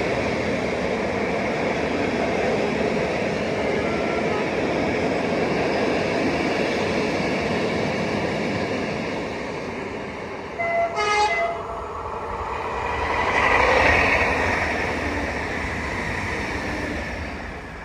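A train passing on the rails with a steady rolling noise. About eleven seconds in it gives two short horn blasts, then the noise swells once more and fades away near the end.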